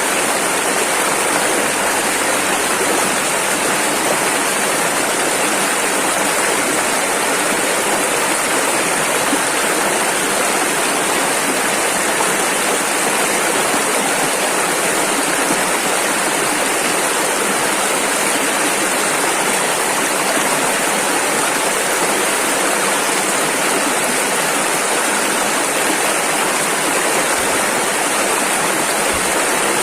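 Rushing river water, a steady even roar of rapids with no change in level.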